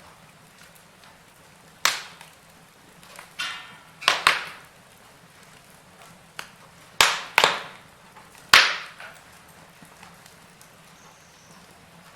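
Wood fire in a fireplace crackling, with about half a dozen sharp pops and snaps over a low, steady background.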